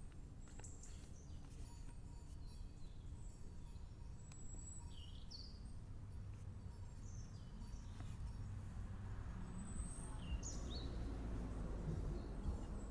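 Birds calling twice, each a short high chirp followed by a falling whistle, over a faint steady low outdoor rumble that grows a little louder near the end.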